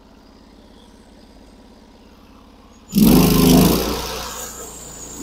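Norwood HD36 band sawmill's engine idling steadily, then throttled up suddenly about three seconds in. It is loud at first and settles to a steady, higher running note.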